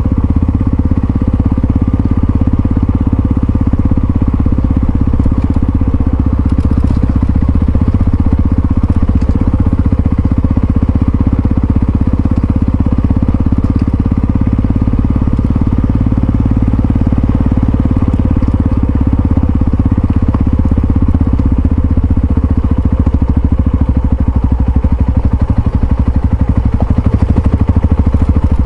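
Yamaha XT660Z Ténéré's single-cylinder engine running steadily while riding, loud and close, its pitch holding level throughout.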